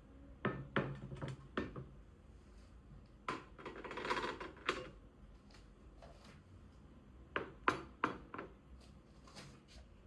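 Light clicks and knocks of small household objects being handled, in a cluster near the start and another near the end, with a short noisy stretch in between.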